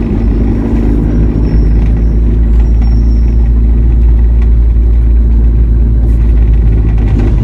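Steady low rumble of a vehicle driving, heard from inside the cab, with no change in pitch.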